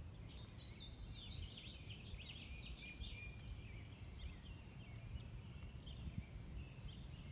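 Faint birdsong: quick chirping and warbling phrases for the first few seconds, thinning out toward the end, over a low steady rumble.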